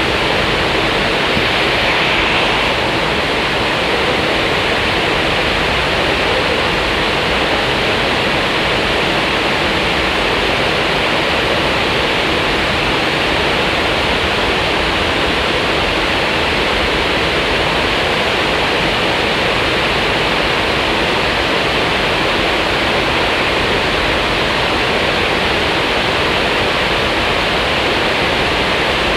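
Glass tempering line blowing air: a loud, steady rush of air with a faint steady hum underneath, unchanging throughout.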